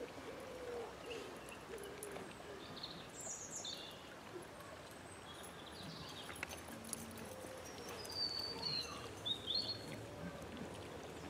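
Outdoor garden ambience with birds chirping now and then: short high calls around the middle and again near the end.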